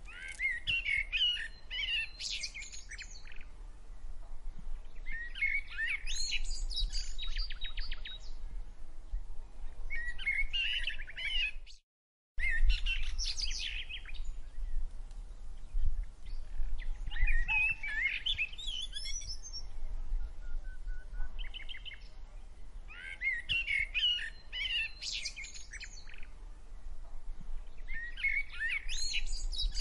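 Songbirds chirping and trilling in short bursts every five or six seconds over a low steady rumble. The sound cuts out completely for about half a second about twelve seconds in.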